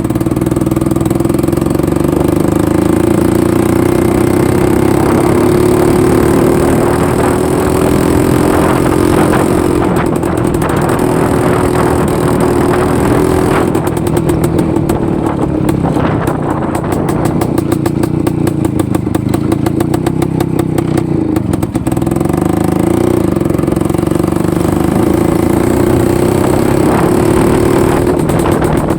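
IZh-49 motorcycle's single-cylinder two-stroke engine running under way, its pitch rising and falling as the throttle opens and closes, with a lower, rougher stretch of several seconds around the middle.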